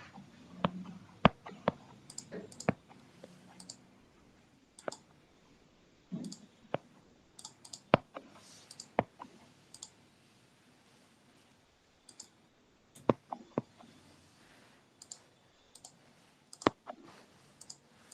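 Irregular single clicks of a computer mouse, some in quick pairs, with a quieter pause of a couple of seconds about two-thirds of the way through.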